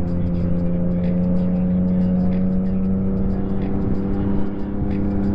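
2023 Yamaha MT-09 SP's inline three-cylinder engine through a full Akrapovic race exhaust, running at steady revs while riding, its pitch creeping slightly upward.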